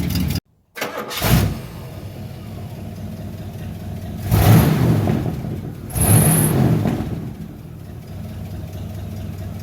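1970 Cadillac Eldorado's 500 cubic-inch (8.2 L) V8 running at idle and revved twice, each rev swelling up and settling back, with a short burst of sound about a second in. The engine is being run to check a repaired exhaust leak, much improved though a small leak remains.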